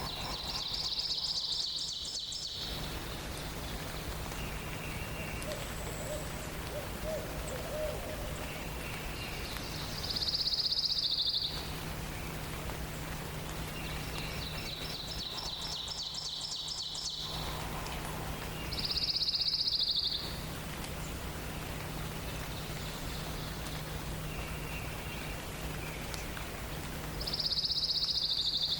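A songbird repeating a short, high trilled song five times, each lasting a second or two, with fainter calls from other birds in a forest dawn chorus. A faint steady low hum runs underneath.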